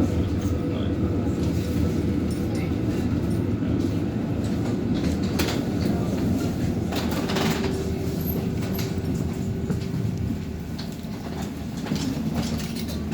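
Helsinki tram running along its rails: a steady rumble with scattered clicks and knocks from the wheels over the track, and a steady hum for a few seconds in the middle.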